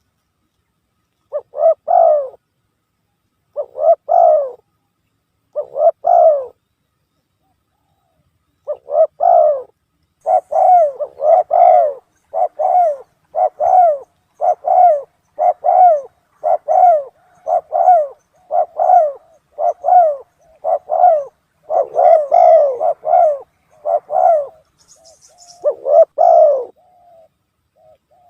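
Spotted dove (tekukur) cooing, played as a bird-trapper's lure call: three coos about two seconds apart, a pause, then a long run of about one coo a second.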